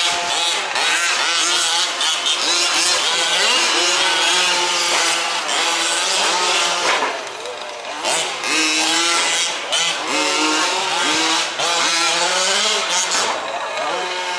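Several 1/5-scale RC off-road trucks' small two-stroke petrol engines revving up and down as they race, their pitches rising and falling and overlapping.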